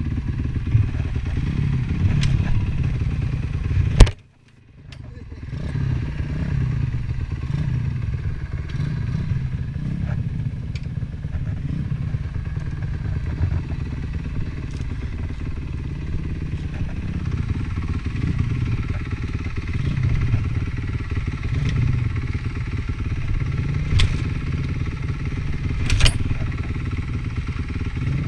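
Honda CRF450 four-stroke single-cylinder motocross engine running as the bike is ridden, its note rising and falling with the throttle. About four seconds in there is a sharp knock, after which the sound cuts out for about a second before the engine is heard again. A few smaller sharp knocks come later.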